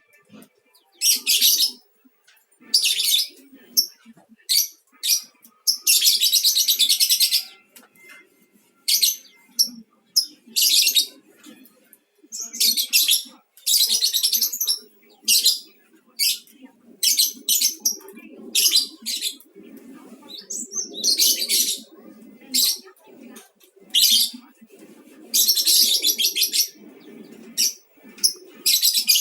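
Lovebird singing: high-pitched, rapid chattering trills in repeated bursts, some short chirps and some long runs of up to about two seconds.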